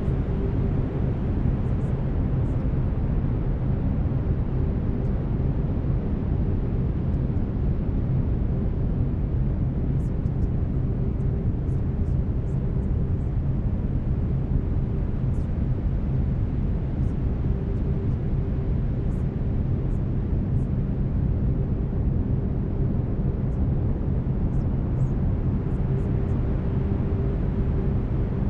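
Brown noise: a steady, deep, rumbling hiss with no breaks, laid under faint steady low tones of binaural beats.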